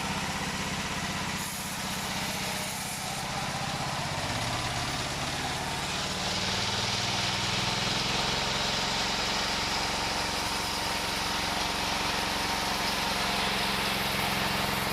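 Engine-driven wood saw machine running steadily. Its engine steps up in pitch between about four and six seconds in, with more hiss after that.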